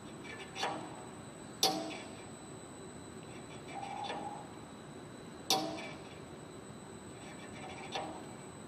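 Gym weight equipment clanking: four sharp metallic clanks at uneven intervals, each ringing briefly, over a steady background hum.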